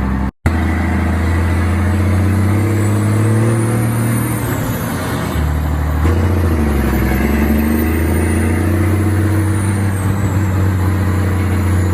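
Old truck's engine running while the truck drives, its speed dropping about four seconds in and picking up again about two seconds later. A thin high whine rises and falls above it.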